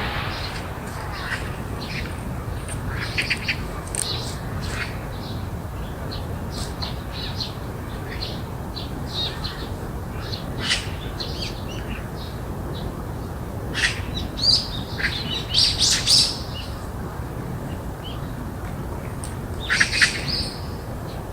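Birds chirping and calling in short, scattered notes, with louder bursts of calls about fourteen to sixteen seconds in and again near the end, over a steady low background rumble.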